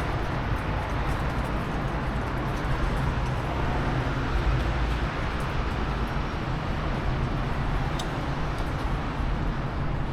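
Rainy city street ambience: a steady low rumble of vehicles under an even hiss of rain and wet roads, with a few faint sharp ticks.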